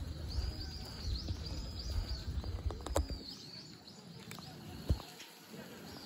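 Outdoor ambience with a small bird's high chirps repeated several times over a low rumble, and a couple of sharp clicks about three and five seconds in.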